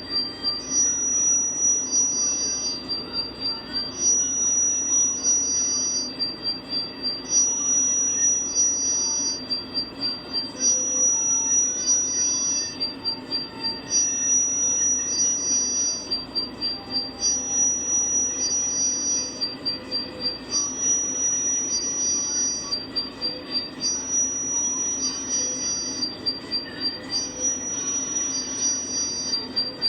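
Two high-pitched tones take turns about every two seconds, a higher steady one and a slightly lower pulsing one, going back and forth throughout, over a steady low hum.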